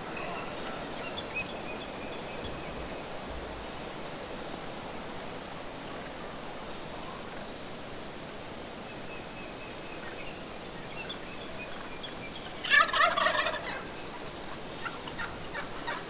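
Wild turkey gobbling: one loud, short gobble about three-quarters of the way in, followed by a few fainter calls near the end.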